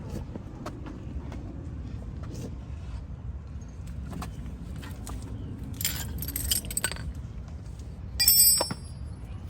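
Metal tools clinking and tapping against car brake parts, with a low steady rumble underneath. A few light clicks come through, then a cluster of clinks about six seconds in, and near the end one loud metal clink that rings briefly.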